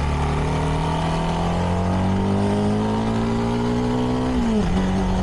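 CFMoto 300NK's single-cylinder engine through its stock exhaust, pulling in gear with the revs rising slowly for about four seconds. Near the end the revs drop quickly and settle lower, an upshift, with road and wind rumble underneath.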